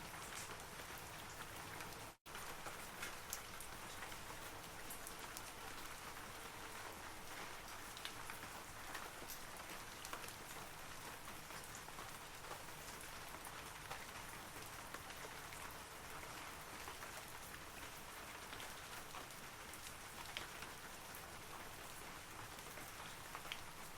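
Steady rain falling on forest trees: an even hiss with scattered louder drops. The sound cuts out to silence for an instant about two seconds in.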